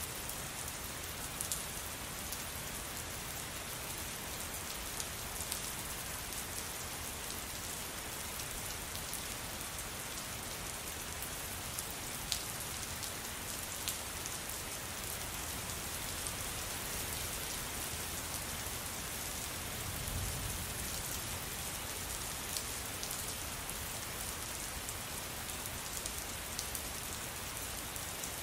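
Steady rain falling, with scattered sharper drop hits standing out now and then. A brief low rumble swells about twenty seconds in.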